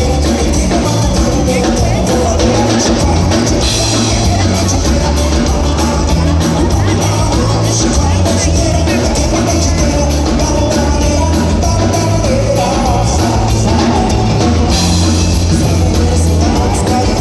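Live gaúcho dance band playing an upbeat song with a steady beat and strong bass, with singing at times.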